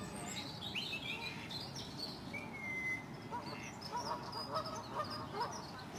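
Birds calling: many short high chirps and peeps, a longer whistled note about halfway through, and a run of lower calls in the second half.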